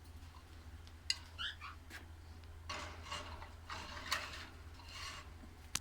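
Small pet parrots chirping in short, scratchy calls, several in a row about a second apart, over a steady low hum.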